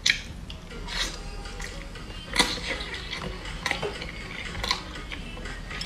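Close-miked eating sounds: a bite into a piece of fried food, then chewing with mouth noises, broken by about five sharp clicks.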